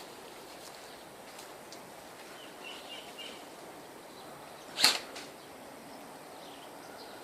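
A single sharp airsoft gun shot about five seconds in, followed by a fainter click a moment later, over quiet outdoor background with faint high chirps.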